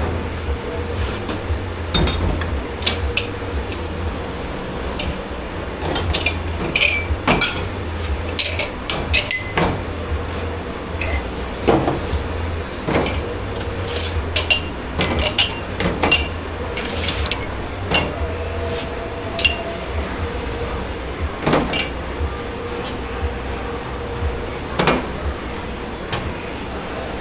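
Dishes, pans and cutlery clattering and clinking as they are handled at a commercial dishwashing station: irregular knocks and clinks over a steady low hum.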